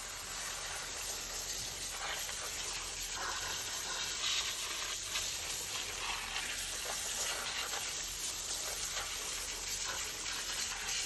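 Water spray jetting onto mud-caked machinery: a steady, crackling hiss that holds throughout.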